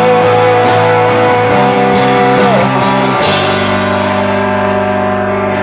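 Live rock band playing: guitar chords and drum kit with cymbals, a long held note over the first half, then a new chord struck with a cymbal crash about three seconds in that rings on.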